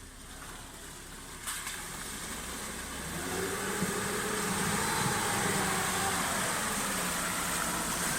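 Off-road vehicle's engine running at idle, growing louder after about three seconds and then holding steady, with a single sharp click about one and a half seconds in.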